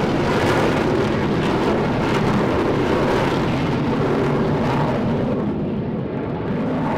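Aircraft passing close by: a loud, steady engine rumble with a hiss on top.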